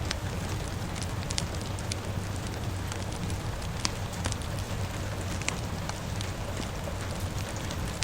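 Rain and a crackling fire: a steady hiss of rain with a low rumble underneath, and frequent sharp, irregular pops and crackles from the burning wood.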